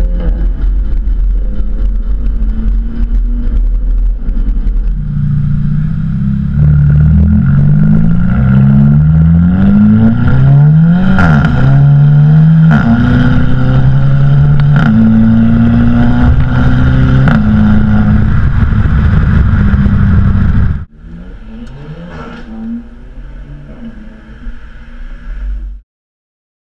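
Volkswagen Golf GTI Mk6's turbocharged four-cylinder pulling hard through several quick DSG upshifts, the revs climbing and dropping at each shift, with a sharp crack from the 2.5-inch stainless steel catback exhaust at the shifts: the DSG 'fart'. About three-quarters of the way through the loud run stops suddenly, and a quieter engine sound follows before cutting off.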